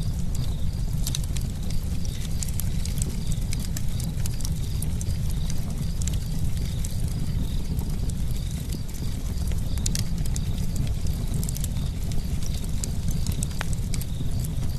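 Campfire burning: a steady low rumble of flames with sharp wood crackles and pops scattered irregularly throughout.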